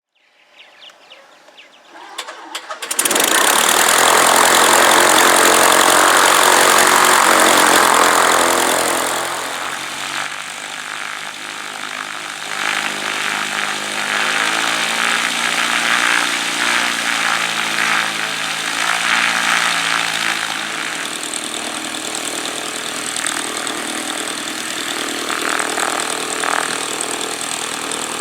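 A Cessna 150's four-cylinder piston engine comes in suddenly about three seconds in and runs loud for several seconds. It then drops to a lower level, its pitch wavering up and down.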